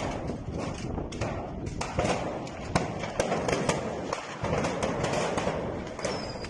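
Dense, irregular cracks and pops over a steady rushing noise: the port warehouse fire burning, with fireworks stored inside going off, shortly before the blast.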